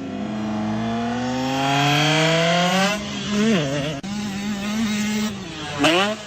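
A motorcycle engine revving up, its pitch climbing for about three seconds. The pitch then drops sharply and settles at a steady level, like a gear change. Near the end it dips again and rises quickly in a loud, sharp rev.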